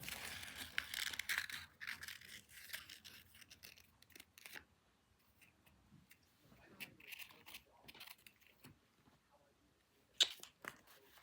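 Paper rustling as a sheet is handled and folded by hand, loudest in the first two seconds, then quieter scattered crinkles and small clicks, with one sharp tap about ten seconds in.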